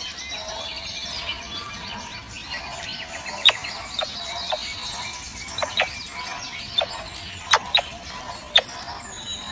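Birds chirping: about ten short, sharp chirps at irregular intervals, most of them in the second half, over a faint steady high twittering.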